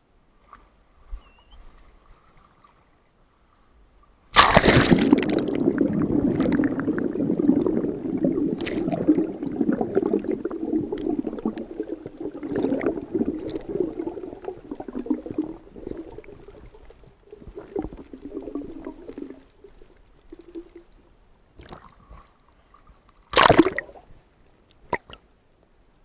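Water sloshing and gurgling. It starts suddenly about four seconds in, runs on and fades away, then one short sharp splash comes near the end.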